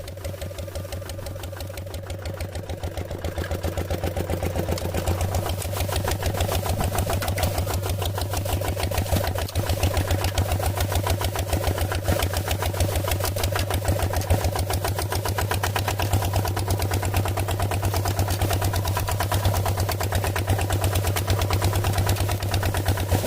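A small engine running steadily, with a rapid, even beat that grows a little louder over the first few seconds.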